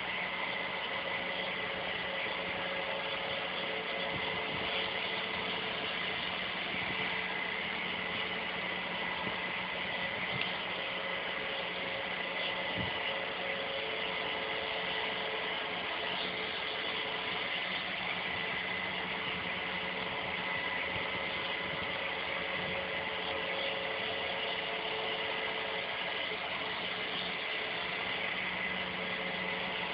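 Smart vacuum cleaner running steadily, its motor whirring with a constant hum and hiss.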